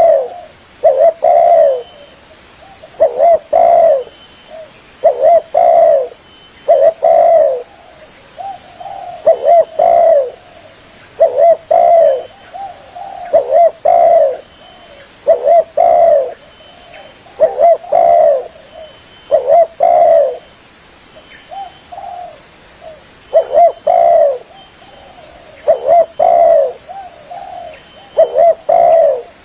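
Spotted dove (tekukur) cooing over and over, a phrase of two or three low coos about every two seconds.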